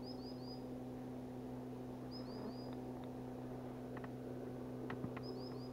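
A small bird calling three times in quick runs of three short high chirps, about every two and a half seconds, over a steady low hum, with a few faint clicks about four to five seconds in.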